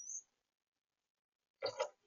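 Small birds at a feeder: a high, thin call fades out at the start, then two quick knocks close together near the end.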